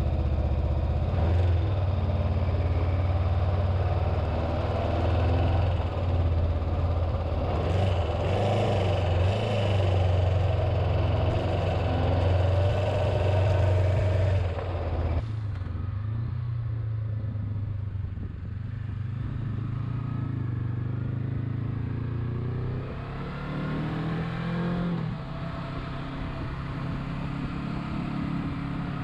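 Honda CB500X motorcycle's parallel-twin engine running as the bike rides off. The sound changes abruptly about halfway through, and the engine rises in pitch as it revs up a few seconds before the end.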